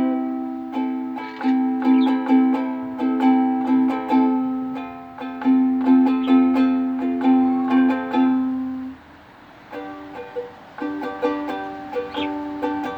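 Ukulele playing chords at about two strokes a second. About nine seconds in it pauses briefly, then goes on with softer picked notes.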